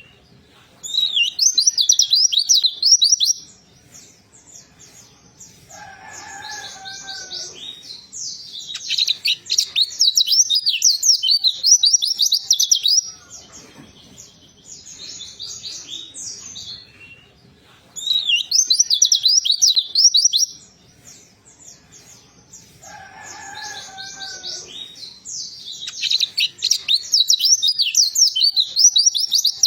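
Pleci (white-eye) singing: bursts of rapid, high twittering and warbling notes lasting two to four seconds, with pauses between them. Twice, a softer, lower call sounds in the gaps. The same run of phrases repeats partway through, like a looped recording.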